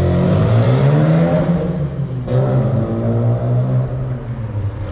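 Car engine accelerating hard, its pitch rising, with a brief break for a gear change about two seconds in before it climbs again.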